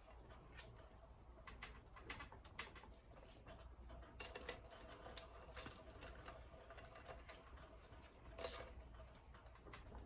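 Faint scattered metallic clicks and taps as clutch cover bolts are spun in by hand on a cast-iron engine, with a few sharper clicks about four, five and a half and eight and a half seconds in.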